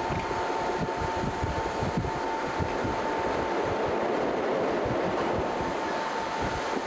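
Local passenger train running along the line, heard from on board: a steady running rumble with wind buffeting the microphone in irregular low thumps, and a thin steady whine over it.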